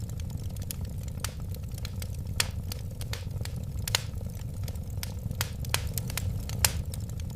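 Wood fire crackling and popping in a fireplace: irregular sharp snaps several times a second over a steady low rumble of flames.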